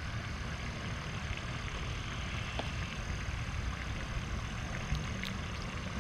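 Steady low rumble of distant road traffic, with a thin, steady high-pitched tone above it and a few faint ticks.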